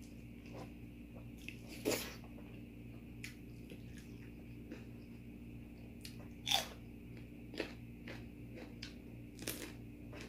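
Close-up eating sounds: food being bitten and chewed, with a few sharp crunches about two, six and a half and nine and a half seconds in, over a steady low hum.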